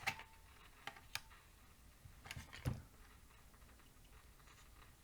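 A few sharp, irregular clicks and crackles, about five of them in the first three seconds, the loudest right at the start and near the three-second mark, then only a faint background.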